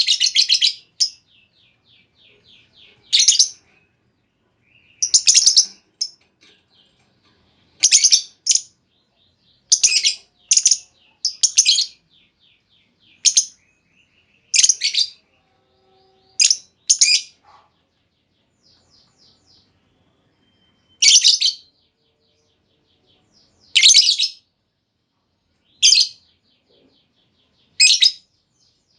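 Female lovebird calling: short, shrill chirps repeated every one to three seconds, with faint rapid chattering between some of them.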